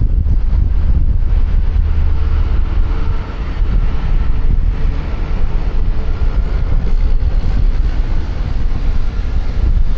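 Heavy wind rumble on a helmet-mounted microphone while riding a QJMotor Fortress 160 scooter at road speed, with the engine and passing traffic faintly beneath. The wind noise dips briefly about three seconds in.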